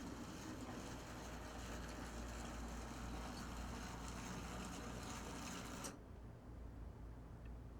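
HO-scale brass 2-8-0 steam locomotive model with a can motor running along the track: a steady whir of motor and gears with a few faint clicks. The running sound cuts off suddenly about six seconds in, leaving only a low hum.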